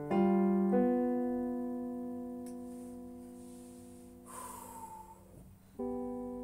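Piano being practised: a chord struck just after the start and another note added under a second in, left to ring and slowly fade, then a new chord struck near the end. A short soft noise comes partway through.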